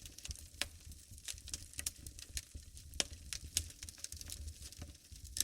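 Wood fire crackling in a fireplace: irregular sharp pops and snaps over a low, steady rumble of flame, with louder pops about half a second and three seconds in.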